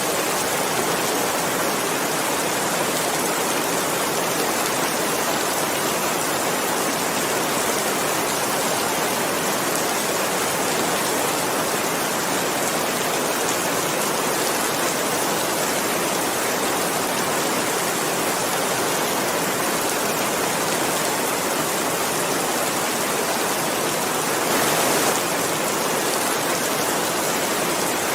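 Steady rainfall, a dense, even hiss of falling drops, briefly a little louder about three-quarters of the way through.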